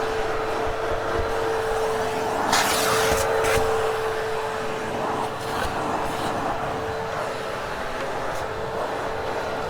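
Hoover HushTone vacuum running steadily, with a constant whine over a rush of air as the hose nozzle works the carpet. The rushing briefly grows louder twice, about two and a half and three and a half seconds in.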